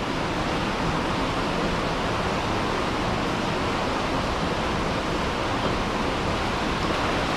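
Steady rushing of a spillway pouring rainwater out into the bay after heavy rain.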